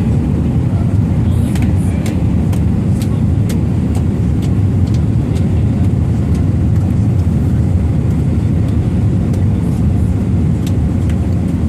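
Steady low roar inside the cabin of an Airbus A320 airliner in flight, the engine and airflow noise heard from a passenger seat, with scattered faint clicks.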